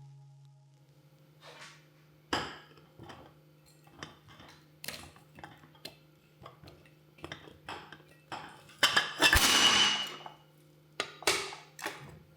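Dishes and kitchen utensils clinking and clattering in a run of separate knocks. About nine seconds in there is a louder, noisier stretch of scraping or rushing. A low steady hum runs underneath.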